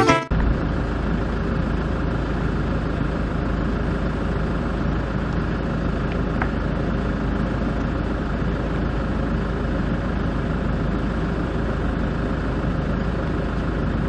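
Steady running noise of a motor vehicle, strongest in the low end and unchanging throughout.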